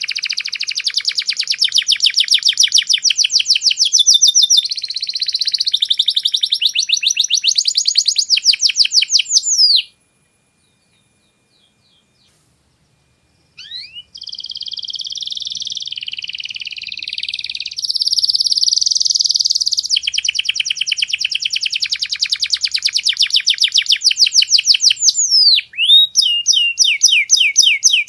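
Domestic canary singing long, fast trills of rapidly repeated notes that shift pitch from phrase to phrase. The song breaks off abruptly about ten seconds in and resumes after a pause of about three and a half seconds.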